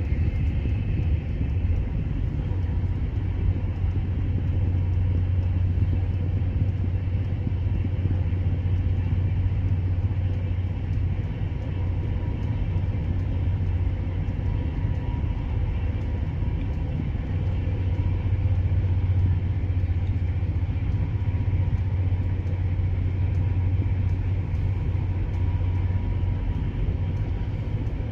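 Steady low rumble of a passenger train coach running at about 155 km/h, heard from inside the coach: wheels on the rails and running noise, with no speech.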